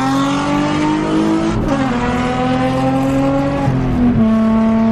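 Nissan Z-car's V6 engine pulling hard through the gears: the engine note climbs, drops at an upshift about a second and a half in, climbs again and drops at a second upshift near four seconds, then holds steady.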